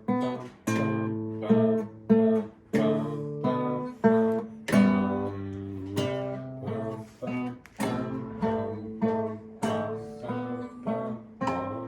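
Guitar practice: chords plucked or strummed one after another at an even pace, a little under two a second, each left ringing until the next.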